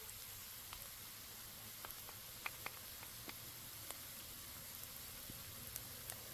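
Food sizzling in a pan: a faint steady hiss with scattered sharp pops.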